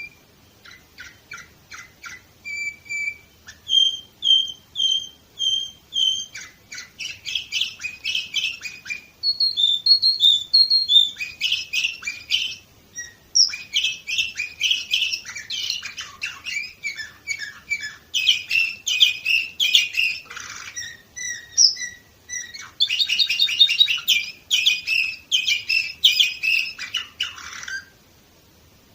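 Domestic canary singing one long song of quick trilled phrases, each phrase a rapid run of the same repeated note, changing from phrase to phrase. The song stops abruptly about a second before the end.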